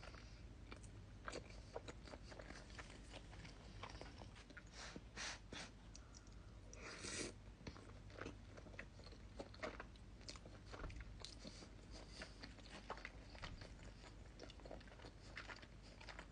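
Close-miked chewing of chicken riggies (rigatoni and chicken in a creamy tomato sauce): many soft, wet mouth clicks and smacks. One louder, longer noisy sound comes about seven seconds in.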